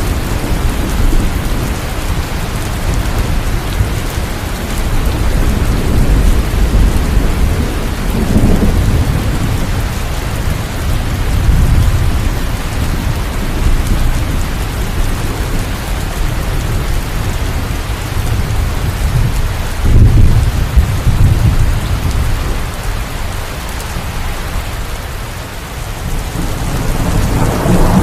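Steady heavy rain with thunder rumbling underneath, the rumble swelling several times, most strongly about two-thirds of the way through.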